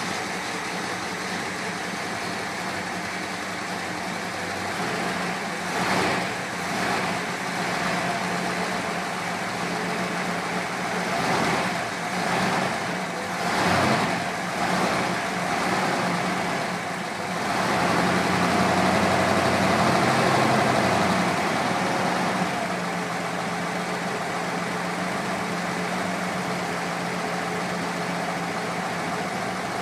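1957 Ford Thunderbird V8 engine idling steadily. It picks up speed briefly several times in the first half, then holds a higher speed for a few seconds before settling back to idle.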